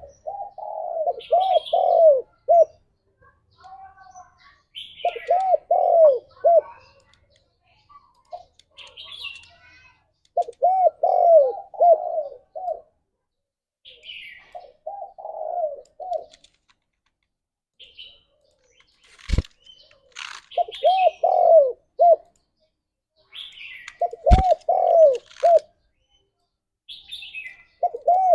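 Spotted doves (tekukur) cooing in repeated phrases of several coos each, one phrase every few seconds, with short high chirps of small birds between the phrases. Two sharp clicks come in the second half.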